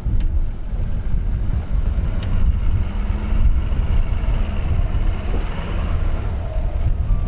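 Heavy wind buffeting the microphone in a snowstorm, an uneven low rumble with a faint steady hum beneath it.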